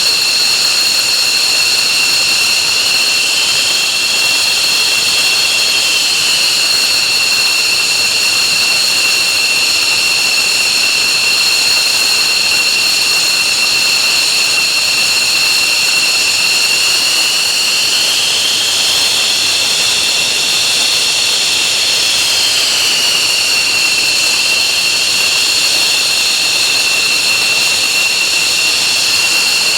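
F-15J's Pratt & Whitney F100 turbofan jet engines running on the ground, a loud steady high whine over a rushing noise. Twice a second whine rises a little in pitch and settles back: once near the start, and for a few seconds past the middle.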